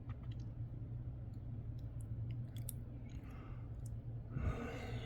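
Faint scattered clicks of nickels being handled and set down, with a breath out around the fourth second, over a steady low hum.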